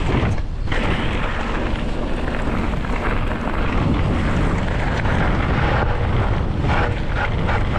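Wind rushing over the microphone of a moving bicycle rider, a steady loud rush.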